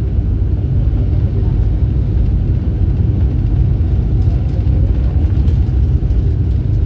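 Low, steady running rumble of the Vande Bharat Express electric trainset, heard inside the coach.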